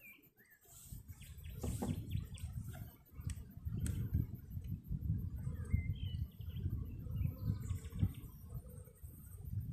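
Birds chirping a few times over a low, uneven rumble, with a few sharp knocks as wooden hive frames are pressed and lifted out.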